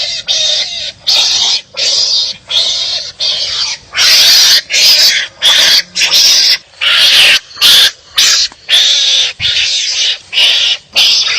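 Wild animals fighting, giving harsh, raspy barking calls over and over in quick succession, roughly one and a half calls a second with short breaks between.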